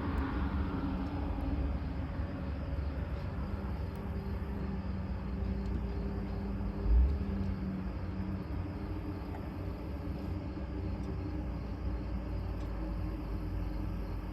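An engine running steadily at idle: a low rumble with a faint hum, and one dull thump about seven seconds in.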